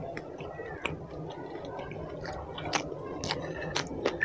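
Wet chewing of a mouthful of curry and roti, with scattered sharp clicks. Toward the end, fingers squish through curry gravy on a plate.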